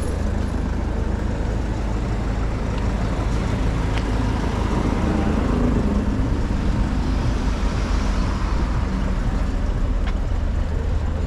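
City street traffic: cars and buses passing, a steady rumble that swells a little midway.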